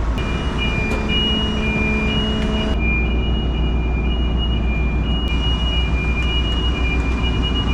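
Heavy diesel engine running steadily, with two high whining tones that cut in and out.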